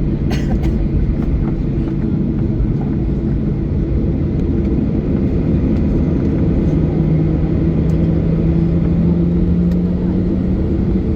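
Steady cabin rumble of a Boeing 737-800's CFM56 jet engines and airframe, with a low hum that steps slightly higher in pitch about two-thirds of the way through. A few light clicks near the start.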